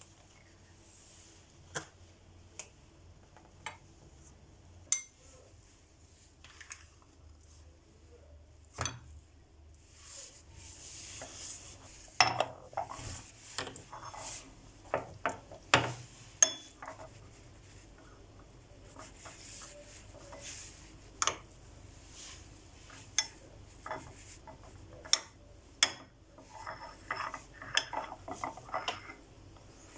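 Food storage containers and their lids being handled and set down: scattered clicks, knocks and light clatter, with brief rustling in between.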